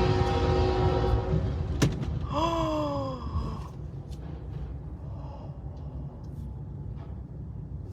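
CSX train horn trailing off over the low rumble of the moving train, which fades and keeps on quietly. A sharp click comes just before two seconds in, followed by a person's gasp.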